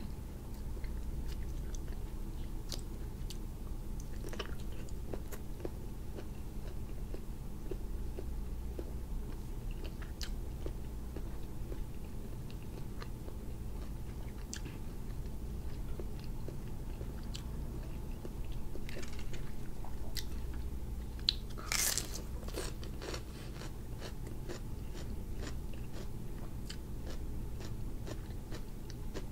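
Close mouth sounds of a person eating grilled cuttlefish: chewing with many small wet clicks and smacks, and a louder crunchy burst about two-thirds of the way through, over a steady low hum.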